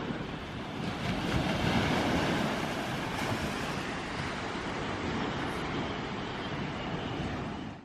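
Sea waves washing onto the beach, with wind buffeting the microphone. The sound cuts off abruptly near the end.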